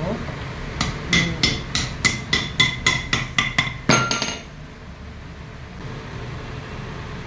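A hammer tapping on a metal part in quick, even, ringing blows, about four a second for roughly three seconds, ending with one harder blow; after that only a low steady background.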